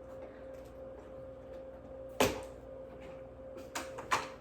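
Sharp plastic clicks from handling the parts of a 360 S10 robot vacuum: one loud click about two seconds in and two lighter ones near the end, over a faint steady hum.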